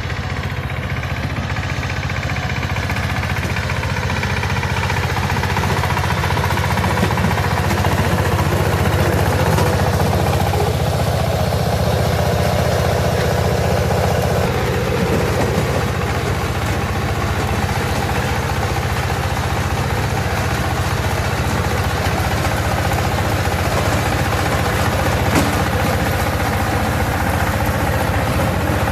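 Walking tractor's engine running steadily.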